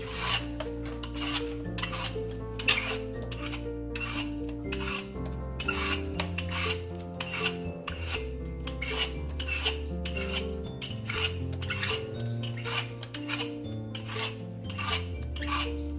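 Korean radish being shredded on a grater, with repeated rasping strokes at roughly two a second. Background music plays underneath.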